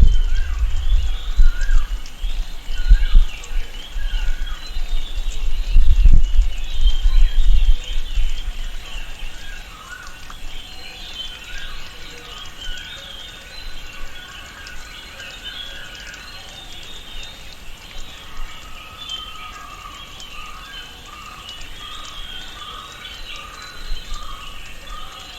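Tropical rainforest ambience: many birds chirping and calling in a dense chorus, with a deep rumble over roughly the first third. From about two-thirds of the way in, one animal repeats a short, lower call over and over.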